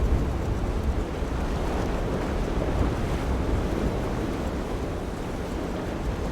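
Wind buffeting the microphone over a steady rush of waves and surf.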